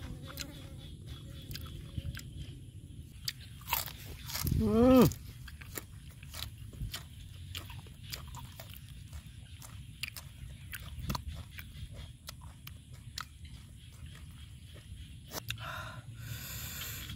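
A person biting and chewing crunchy raw food, such as fresh chilli and vegetables, with many small crisp crunches. About four and a half seconds in comes a short hum from the eater's voice that rises and falls, the loudest sound.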